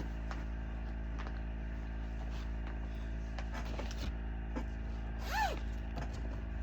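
Steady low hum with faint scattered clicks and rustles of things being handled, as from searching through a bag. About five seconds in comes one brief rising-then-falling pitched sound.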